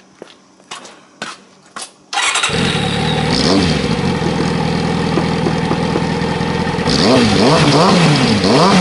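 Kawasaki ZZR400's inline-four engine breathing through a carbon aftermarket silencer: after a few light clicks it is started about two seconds in and settles to a steady idle. Near the end the throttle is blipped several times, the revs rising and falling quickly.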